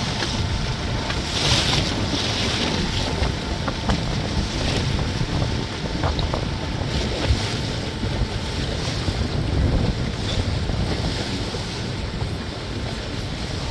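Wind buffeting the microphone on a moving tour boat, over the steady low rumble of its motor and water rushing and splashing along the hull, with a louder splash about a second and a half in.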